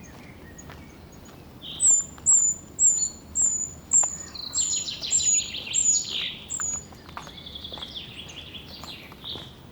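A small songbird singing: a series of about nine short, very high, slightly falling notes, running into a lower rapid, jumbled trill that fades near the end. Faint footsteps on the trail can be heard underneath.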